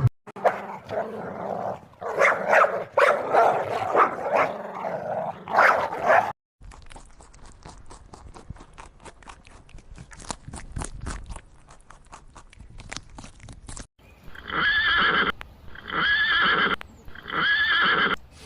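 A run of animal sounds: loud irregular calls for about six seconds, then a quieter stretch of rapid clicking, then three pitched calls of about a second each that rise and fall.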